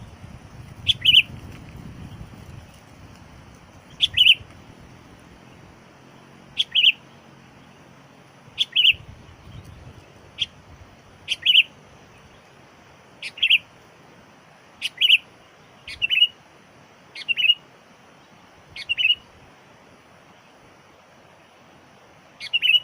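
Trained decoy sooty-headed bulbul (kutilang) calling to lure wild bulbuls: short, sharp call notes repeated about a dozen times, roughly every one and a half to two seconds.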